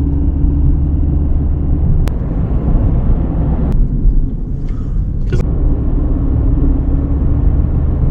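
Car cabin noise while driving: a steady low engine and road rumble with a faint hum.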